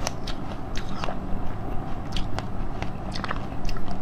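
Close-up chewing of a cheese-shaped jelly candy: irregular wet clicks and smacks of the mouth working through the soft jelly, several a second.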